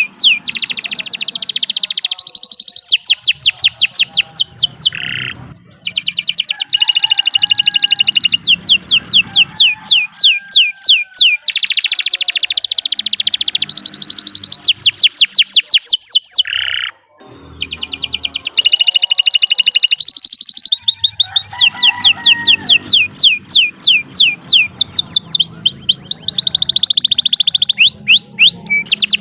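Domestic canary singing a long, unbroken song of rapid high trills, phrase after phrase, with one brief pause about seventeen seconds in.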